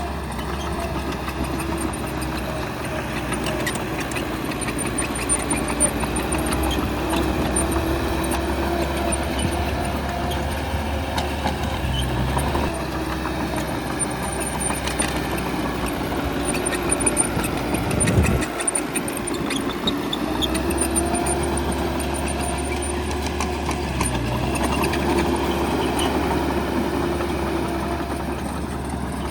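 Bulldozer's diesel engine running under working load, its pitch rising and falling slowly. There is a brief loud knock about two-thirds of the way through.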